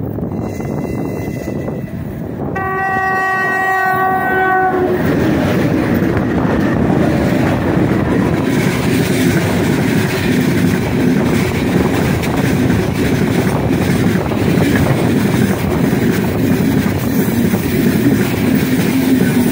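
2ES5K 'Ermak' electric locomotives sounding a single-tone horn for about two seconds as they approach, a greeting from the crew. The locomotives and freight wagons then pass close by, with a steady rumble and the clatter of wheels on the rails.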